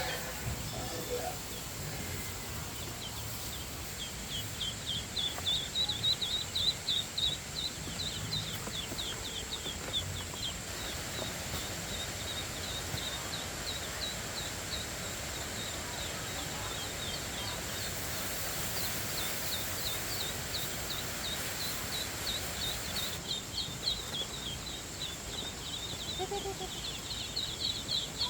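A flock of ducklings peeping: rapid, high, short chirps overlapping almost without pause, with a steady thin high whine behind them.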